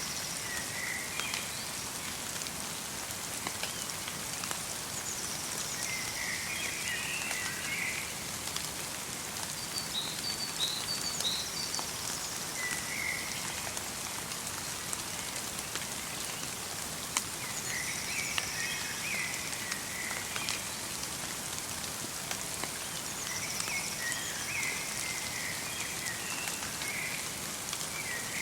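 Light rain falling steadily in a forest, with many fine drip ticks. Small birds call every few seconds over it, in short twittering phrases.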